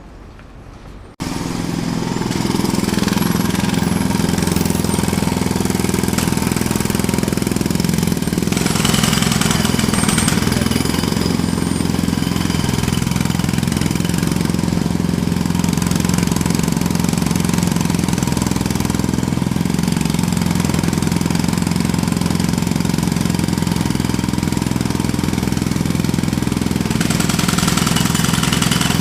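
Jackhammer hammering steadily at a fast, even rate, cutting in suddenly about a second in after a much quieter stretch.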